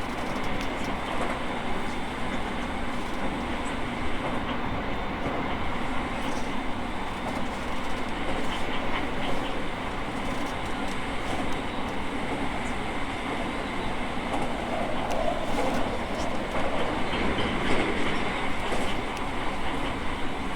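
Interior running noise of an E217 series electric commuter train under way: a steady rumble with the wheels clicking over rail joints now and then, a little louder for a few seconds near the end.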